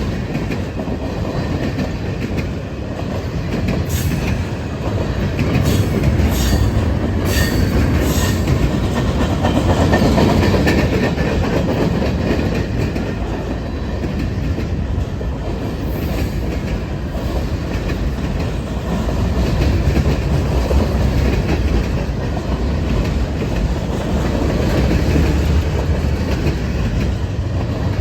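Norfolk Southern freight train rolling past, a steady rumble of cars with wheels clicking over the rail joints; a few sharp clicks stand out between about four and eight seconds in.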